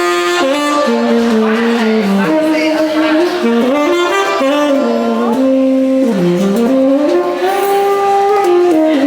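Saxophone playing a jazz melody: a single line of held notes that slide and bend between pitches.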